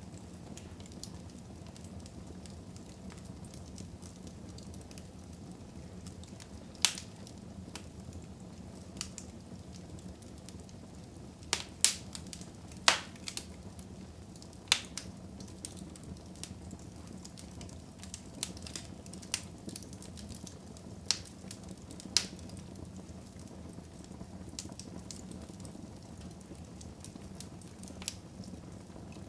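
Wood fire burning in a fireplace: a steady low rumble of flames with scattered sharp pops and crackles from the burning logs, a few of them much louder than the rest.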